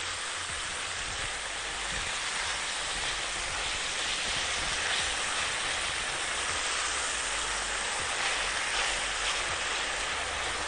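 Slices of pastirma frying in ghee in a frying pan, giving a steady sizzle.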